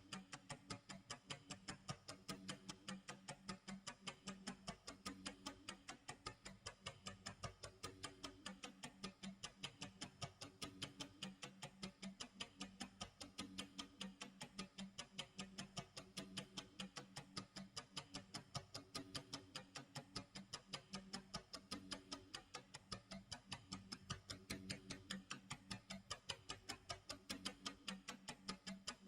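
Clock tick-tock sound effect: a quiet, even, rapid ticking that runs on without a break, over a soft low tone.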